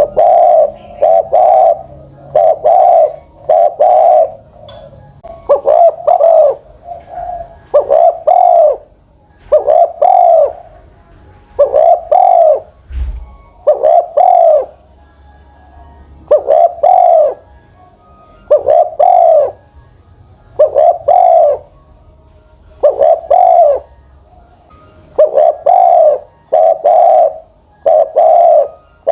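Spotted dove, a captive decoy bird over ten years old, cooing loudly and repeatedly in phrases of several notes, about one coo a second, with short pauses between phrases.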